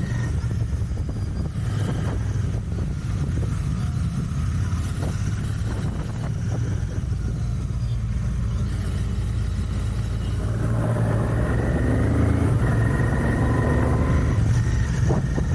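Royal Enfield Continental GT 650's 648 cc parallel-twin engine with its stock exhaust, running as the motorcycle is ridden: a steady low exhaust drone that grows louder and fuller about two-thirds of the way through.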